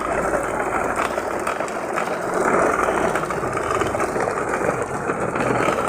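Plastic toy mechanism giving a steady mechanical rattle.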